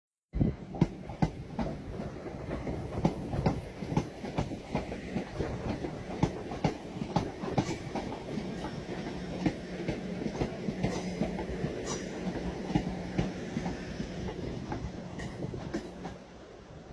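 A train passing, its wheels clacking rapidly and irregularly over rail joints and points. A steady hum joins about halfway through, and the sound falls away near the end.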